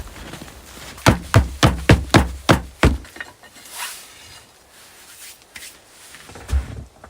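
A quick run of about seven sharp knocks, roughly three a second, then a quieter stretch ending in one more thump.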